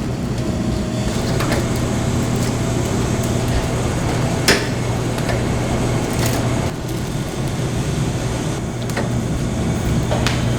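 Steady low machine hum with a noisy background, broken by a few sharp clicks or knocks, the clearest about four and a half seconds in.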